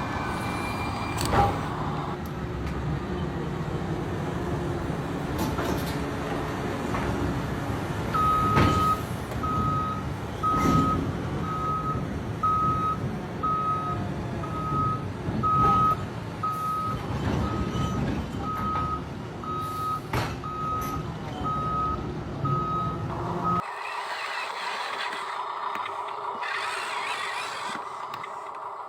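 Electronic reversing beeper of a radio-controlled construction model, beeping evenly about one and a half times a second for some fifteen seconds, starting about eight seconds in. Under it runs a steady rumble of motors with occasional knocks, and the rumble cuts off suddenly near the end.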